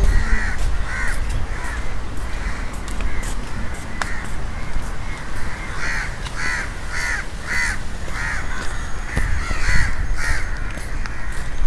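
Birds calling over and over in a long run of short, harsh calls, two or three a second. Low rumble on the microphone comes near the start and again about ten seconds in.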